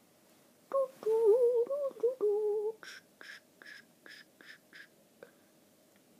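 A person humming a short, wavering tune in a high voice for about two seconds. This is followed by a quick run of about seven short, crisp bursts, roughly three a second.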